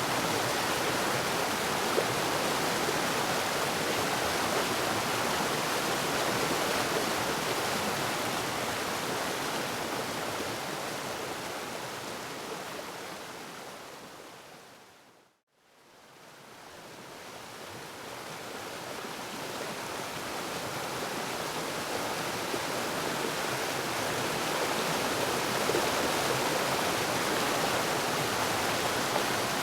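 Waterfall rushing steadily, a dense even hiss of falling water. Midway it fades out to silence and then fades gradually back in.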